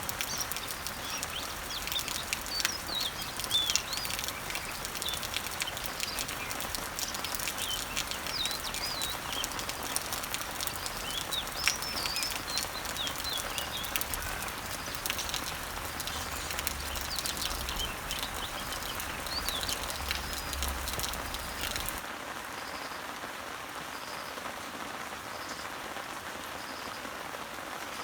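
Steady rain falling on leaves, with many separate drop ticks, while small birds chirp and twitter over it through the first two-thirds. About 22 seconds in, the sound changes abruptly to a smoother, thinner rain hiss with a faint short peep repeating about every second and a half.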